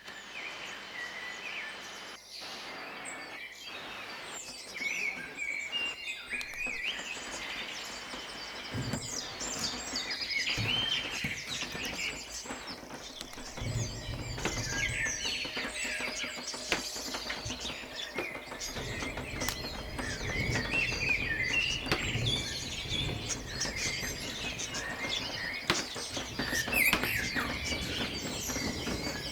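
A flock of birds chirping and calling over one another, becoming denser and a little louder, with a low rumble building underneath from about a third of the way in.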